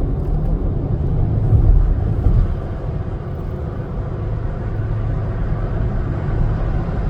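Freightliner Cascadia semi-truck on the move: a steady low engine and road rumble, a little louder about two seconds in.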